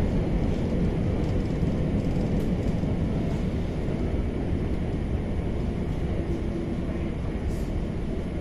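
Steady rumble of an MI84 RER B electric multiple unit in motion, heard from inside the passenger car: wheels on rails and running gear. It gets gradually a little quieter toward the end.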